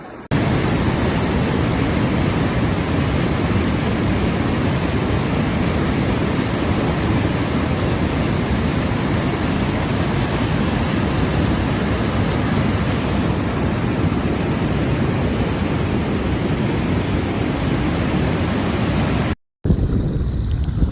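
Loud, steady rushing noise that starts abruptly and cuts off suddenly near the end.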